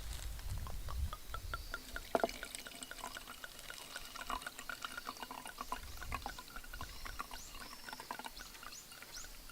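Water pouring and dripping, with many small scattered clicks; a series of short, high chirps repeats over the last few seconds.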